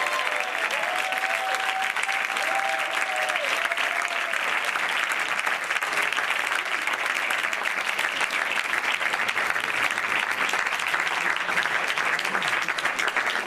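Audience applauding: steady, dense clapping that dies away at the end.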